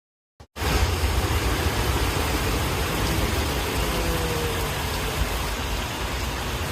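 Heavy rain, a steady dense hiss with a low rumble underneath, starting suddenly about half a second in.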